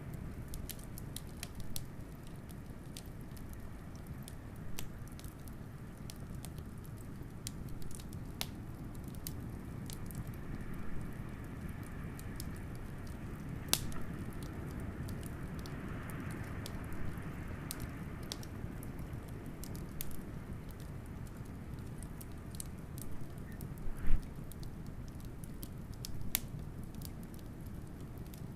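Wood fire crackling with sharp, irregular pops over the steady low rumble of a blizzard wind; a faint wind howl swells in the middle, and one loud pop comes near the end.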